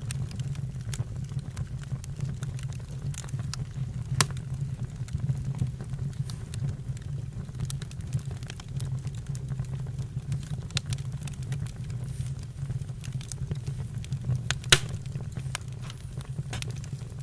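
Campfire burning: a steady low rumble with scattered crackles and pops, a sharper pop about four seconds in and the loudest one about fifteen seconds in.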